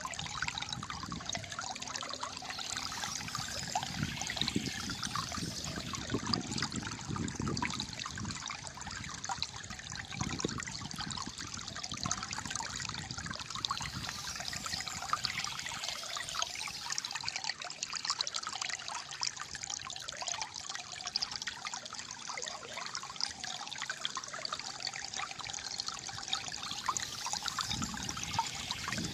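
Shallow flowing water trickling and gurgling steadily.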